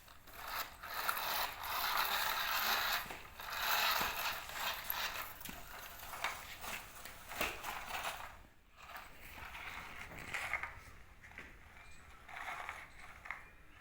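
The plastic gears of a small toy JCB loader or toy truck clicking and grinding as they run, mixed with soil crunching and scraping. The sound is loudest in the first few seconds, drops away briefly about two-thirds of the way through, then carries on more softly.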